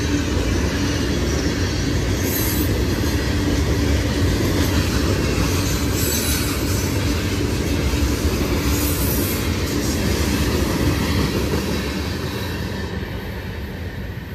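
Train passing close by: a steady, loud rumble and rush of wheels on the rails, with brief high-pitched wheel squeals a few times. It fades near the end as the train moves away.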